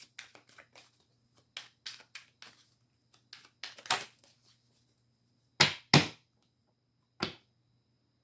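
Tarot cards being handled: a run of light, quick card flicks and taps, then three louder slaps of cards, two close together past the middle and one near the end.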